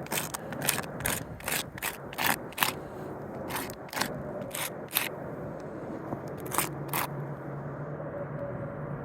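Chalk scraping across asphalt roof shingles in quick short strokes, marking damaged shingles. There is a rapid run of scratches over the first five seconds, then two more strokes about two-thirds of the way in.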